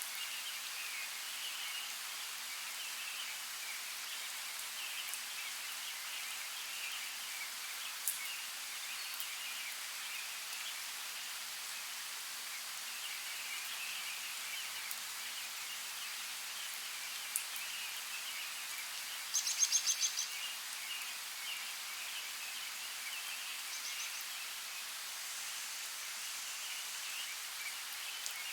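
Steady rushing of a creek with birds chirping faintly in the background; about two-thirds of the way through, one bird gives a quick trill of about eight high notes. A few single sharp ticks stand out briefly.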